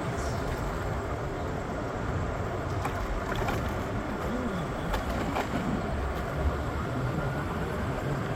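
Steady rumble and hiss of a moving vehicle, with a few faint ticks.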